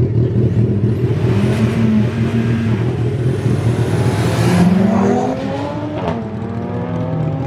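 Race cars accelerating hard in a street drag race. The engines rev up, drop sharply about six seconds in as a gear is shifted, then climb again.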